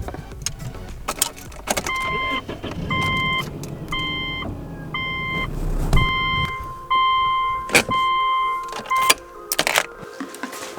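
A car's warning chime dings repeatedly at one steady pitch, about once a second, mixed with sharp clicks and knocks. A low rumble runs under it and stops about six seconds in.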